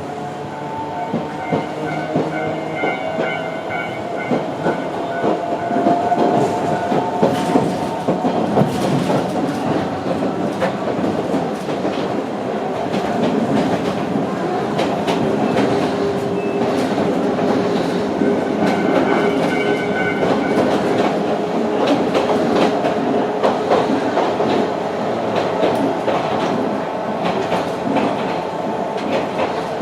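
Ride inside a Sangi Railway Hokusei Line narrow-gauge (762 mm) passenger car under way: wheels and track rumble and clatter over rail joints, under several whining tones that slowly drift in pitch. The knocks are densest about six to twelve seconds in.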